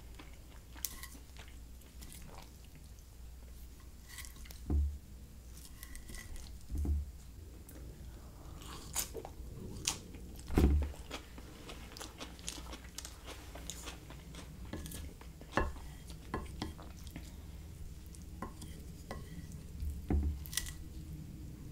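Close-miked eating: chewing and crunching of food, with light clicks and scrapes of a wooden fork on a plate. A few dull low thumps, the loudest about halfway through.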